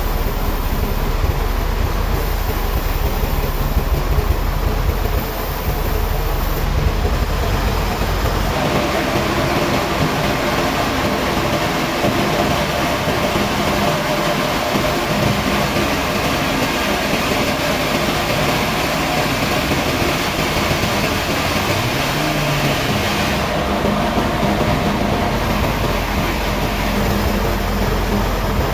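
Heavy sawmill machinery running steadily and loudly. About eight seconds in, the deep rumble drops and steady higher tones come in, as if the saw has gone into a cut.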